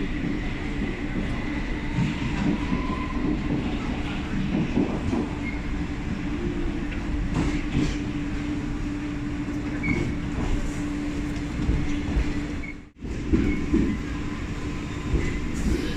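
London Underground train running: a steady rumble with a constant hum, briefly cutting out about three-quarters of the way through.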